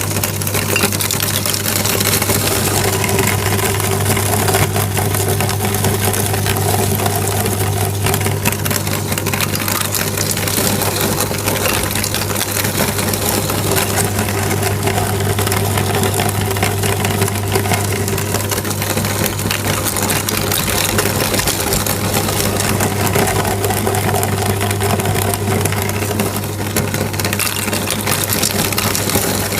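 Electric meat grinder running steadily with a constant motor hum, with many small crackles over it as it grinds eggs.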